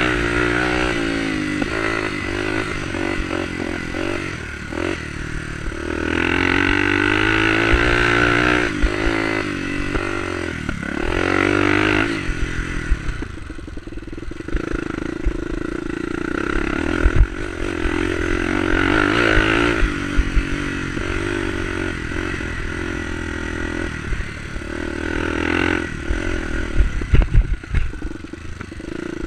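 Enduro motorcycle engine repeatedly accelerating and backing off, its pitch rising and falling again and again. A few sharp knocks come about two-thirds in and again near the end.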